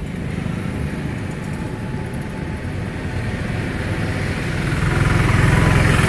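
Road traffic: a motor vehicle's engine and tyre noise drawing closer and growing louder from about four and a half seconds in, over a steady background rumble.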